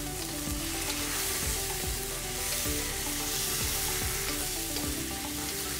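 Chinese sausage and egg fried rice sizzling steadily in a hot wok as it is stirred, with scattered light clicks of the utensil against the wok.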